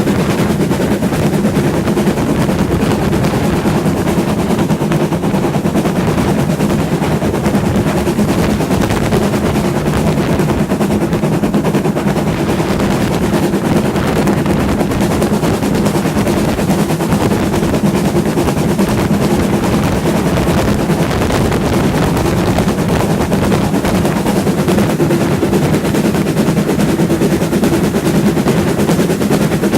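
Steam-hauled heritage train in motion: a loud, continuous rapid rattle over a steady low rumble.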